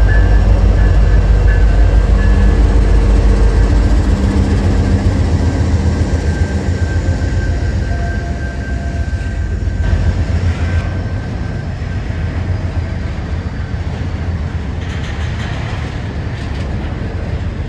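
Intermodal freight train on the move: a heavy, deep rumble of diesel locomotives and rolling cars, with a thin, high, steady wheel tone over it. The rumble eases off from about four seconds in and stays quieter.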